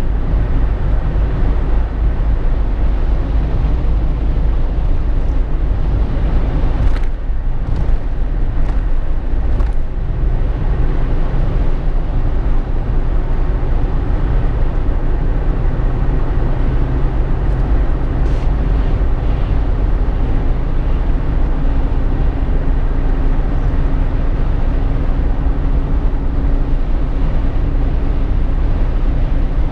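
Steady road noise inside the cabin of a moving Jeep Wrangler JK: a deep tyre and engine rumble with a few brief knocks about a quarter of the way through. A faint engine hum comes up in the second half.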